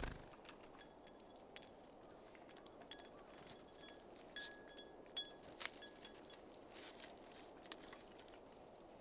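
Small wild birds at a feeding station: scattered light taps and clicks, some with a brief metallic ring, from beaks and feet on the feeder and seeds, over a faint steady hiss. One louder sharp click comes about four and a half seconds in.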